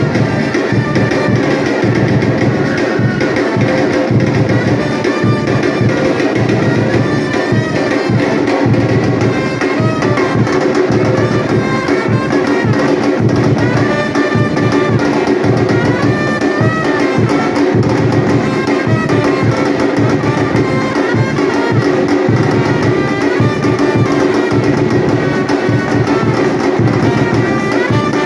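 Batucada drum group playing a dense, steady rhythm, with a melody running over the drums.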